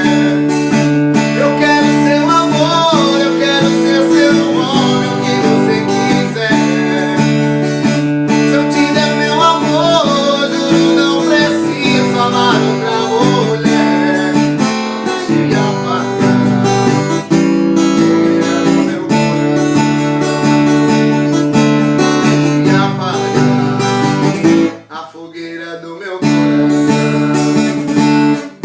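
Acoustic guitar playing a sertanejo song, strummed chords with a picked melody line over them. About 25 s in the guitar drops out for about a second, leaving only a quieter wavering tone, then comes back in.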